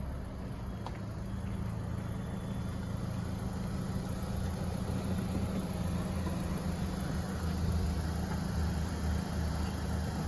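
2018 Honda Civic Sport's turbocharged four-cylinder engine idling steadily, heard from outside the car.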